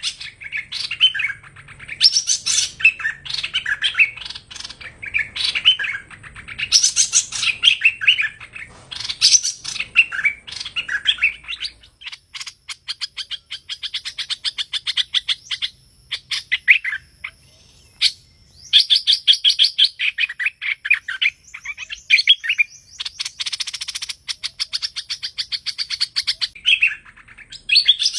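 Hoành hoạch bird song: repeated phrases of quick, chattering chirps, with stretches of very fast rapid-fire notes in the middle and a thin steady high whistle over them at times.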